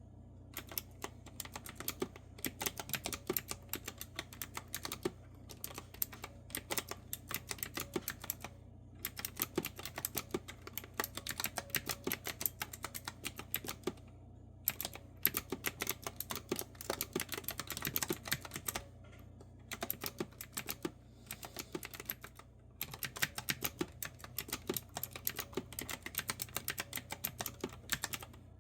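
Clicky retro-style keyboard with round keys being typed on: rapid runs of crisp keystroke clicks broken by brief pauses of about half a second.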